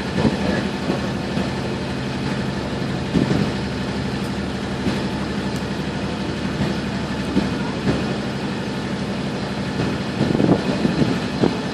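Small water taxi's inboard engine running steadily at low speed, a low even hum.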